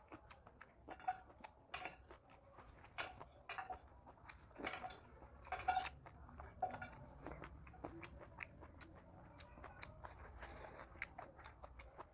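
Close-up eating sounds: a person chewing and biting food, with irregular short crunches and clicks, the loudest bunched in the first half.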